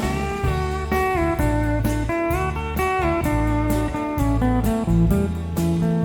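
Country band playing an instrumental break: a pedal steel guitar carries the lead with sliding notes over electric bass and a steady drum beat.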